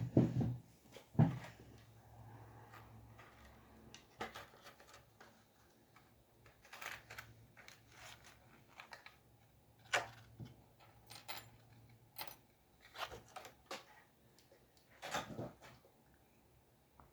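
Drawing on paper at a desk: scattered short scratches and taps of a drawing tool on the page, with two louder knocks in the first second and a half and a few sharper clusters later on.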